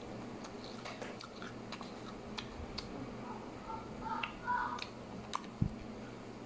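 Someone chewing crunchy puffed potato crisps: scattered faint crunching clicks, with a low thump about five and a half seconds in.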